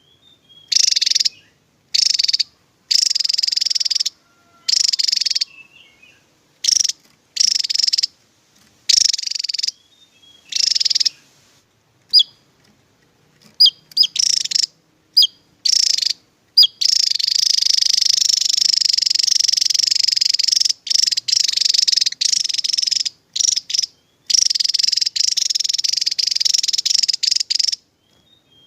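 Javan tesia singing its rapid high-pitched trills in bursts of half a second to a second with short gaps between. A few brief sharp notes come near the middle, then the trilling runs almost unbroken for about ten seconds before stopping shortly before the end.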